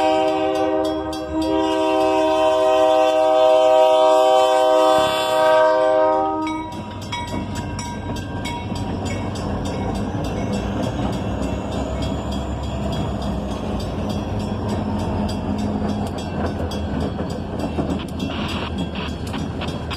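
Multi-chime air horn of a GE C40-8 diesel locomotive sounding one long chord for about six and a half seconds, briefly dipping near the fifth second. Then the locomotive's 16-cylinder diesel engine runs steadily as the train rolls past.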